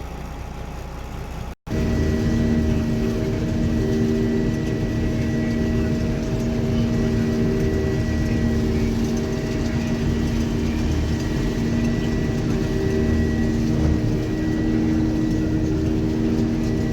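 A brief dropout about a second and a half in, then a combine harvester running steadily while harvesting soybeans: a constant hum with several held tones over a low rumble.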